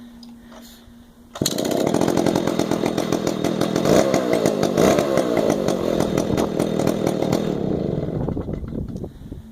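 Stihl 070 two-stroke chainsaw running. About a second and a half in, it jumps suddenly to high revs, holds there loudly for about six seconds, then drops back near the end.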